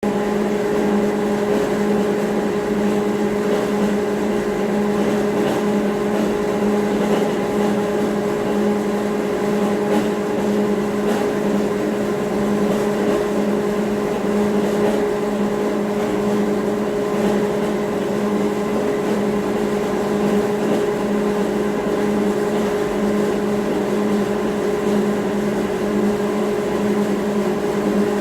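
Steady mechanical hum from running machinery, unchanging throughout, with a constant low tone and a stronger-sounding higher tone above it.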